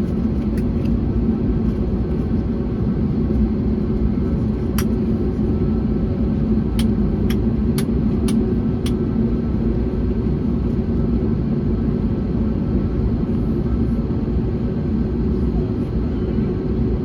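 Steady cabin rumble of an Airbus A321neo airliner, engine and airflow noise with a constant low hum. A sharp click comes about five seconds in, then five quick clicks in a row a couple of seconds later.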